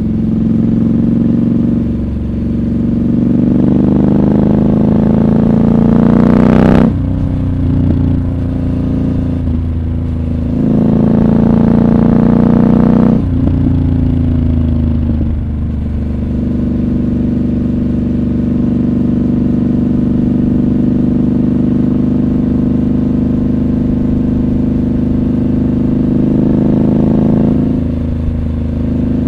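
Triumph Scrambler 1200 XC's 1200 cc parallel-twin engine under way, heard from the rider's seat. The revs climb twice and drop abruptly each time, then hold steady at a cruise with a brief dip near the end.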